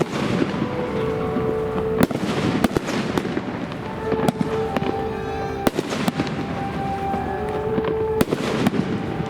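Aerial fireworks bursting, about eight sharp bangs at irregular intervals over a steady rumble and crackle of the display.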